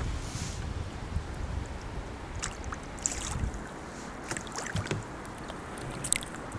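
Kayak paddle splashing in a river current, several irregular strokes, with low wind rumble on the microphone in the first second.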